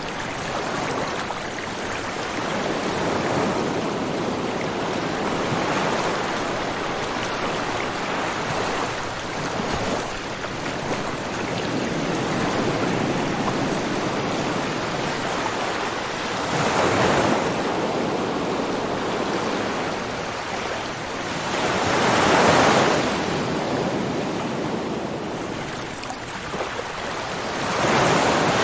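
Ocean waves washing on a shore: a continuous hiss of surf, with a few louder waves swelling and fading in the second half, about every five or six seconds.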